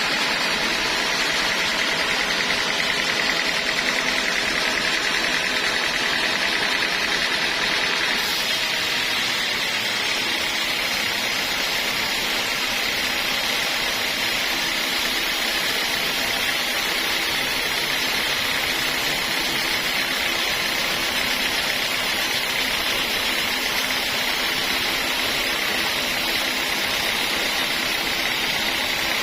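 Sawmill saw running steadily through teak wood with a high, even whine. The tone shifts slightly about eight seconds in.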